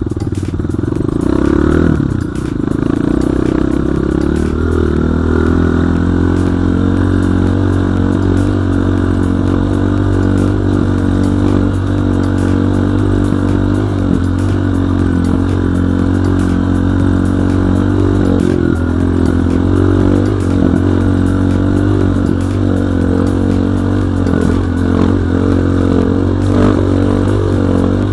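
BSE J1 enduro motorcycle engine running under way, revving up in the first couple of seconds and dropping back, then holding a steady pace. Clatter from the bike running over rough ground.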